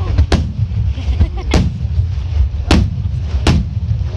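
Aerial fireworks shells bursting: four sharp bangs about a second apart over a steady low rumble.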